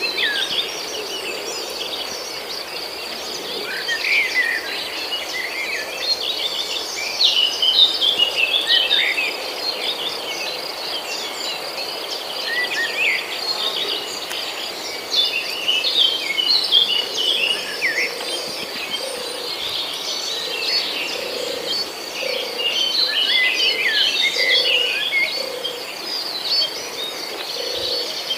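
Many small caged birds chirping and calling busily over one another, with a steady high-pitched trill running underneath. Some lower, repeated notes join in during the second half.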